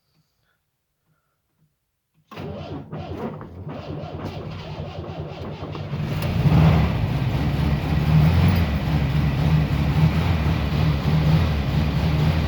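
A 1964 Moskvich-403's four-cylinder petrol engine on its first start attempt with the choke on, unrevised: about two seconds in it begins turning over and firing unevenly, then near the middle it catches and runs steadily and louder.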